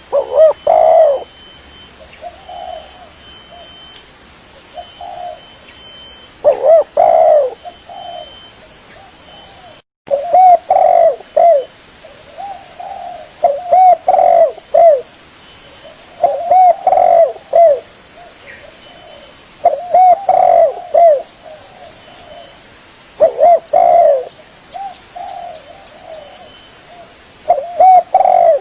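Spotted dove (tekukur) cooing: a short phrase of a few low, pitched coos repeated every three to four seconds, as used on a bird-trapping lure recording. The audio briefly cuts out about ten seconds in.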